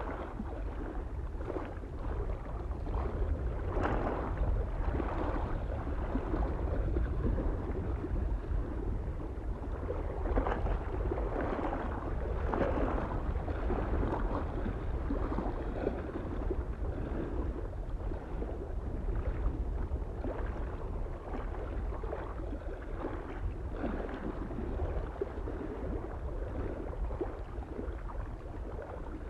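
Small waves lapping and splashing irregularly against a lake shore, with a low rumble of soft wind on the microphone.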